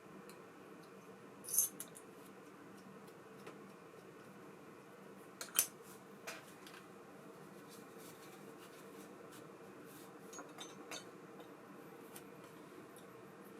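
Small metal parts of an ABU Ambassadeur 5500C baitcasting reel clinking as they are handled: a sharp clink about a second and a half in, a louder pair about five and a half seconds in, then lighter ticks later, over a faint steady hum.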